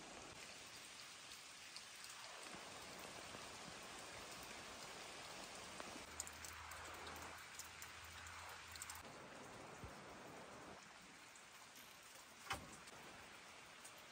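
Light rain falling steadily and faintly, an even hiss dotted with small drop clicks, with one sharper tap near the end.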